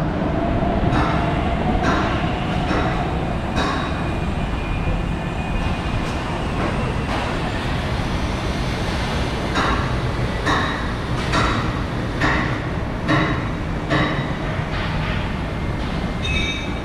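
BTS Skytrain electric train running on the elevated track: a steady rumble, with a series of sharp knocks in the second half.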